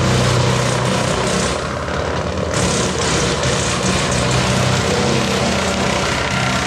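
Woodland Mills PTO wood chipper running off a TYM 574 diesel tractor, a steady engine drone under the hiss and rush of the chipper. The high hiss dips briefly about two seconds in.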